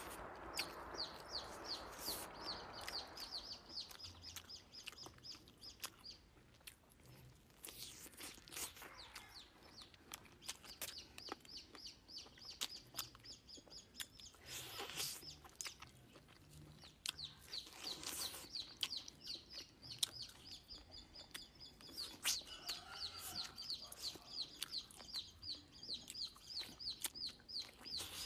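Close-up chewing and lip-smacking while eating fried fish, with a bird chirping in the background in long runs of quick, high, repeated chirps.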